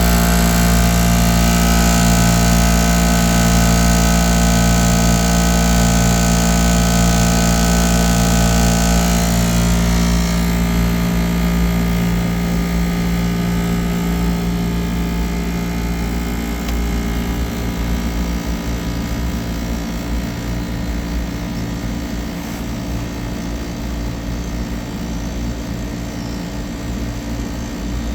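Air-conditioning compressor running with a loud, steady hum and several whining overtones. About nine seconds in, the higher tones drop away and it carries on lower and a little quieter.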